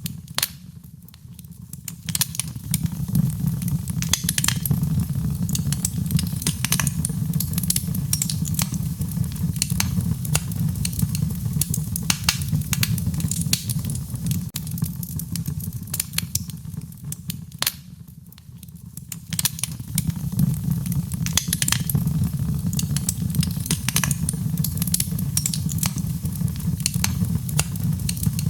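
Wood fire in a fireplace crackling, with many sharp pops and snaps over a steady low rumble of the flames. The crackling twice falls away briefly, once about a second in and once past the middle.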